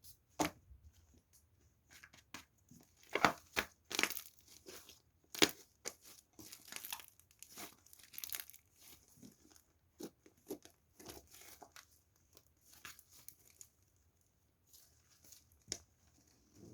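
Crinkling and tearing of a thin wrapper, in irregular bursts of sharp crackles, loudest a few seconds in.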